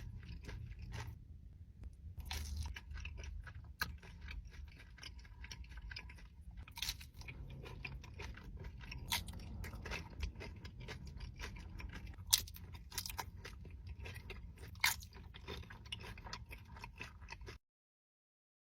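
Close-miked chewing and crunching of food: a dense run of small crunches and clicks with a few sharper, louder bites. It cuts off abruptly about a second before the end.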